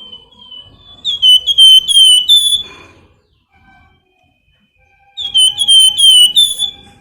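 Flamboyan songbird singing: two runs of rapid, repeated high whistled notes, each note sliding down, the first about a second in and the second about five seconds in.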